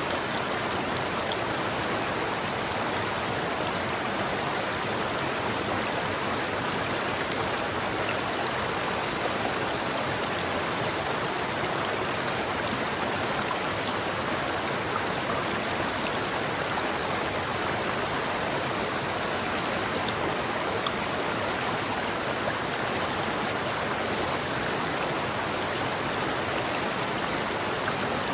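River water flowing steadily over rocks, a constant rushing without pause or change.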